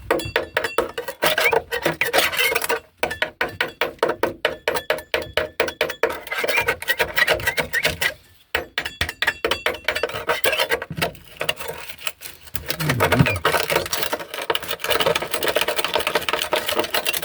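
Hand scraper scraping sound-deadening and underseal off a car's steel floor pan in rapid, repeated rasping strokes, with two brief pauses.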